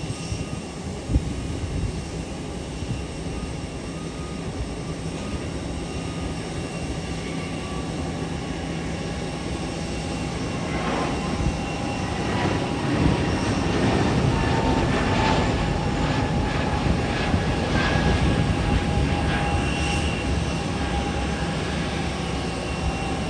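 Airbus A320neo jet engines running at takeoff power: a steady drone with a constant hum, growing louder toward the middle.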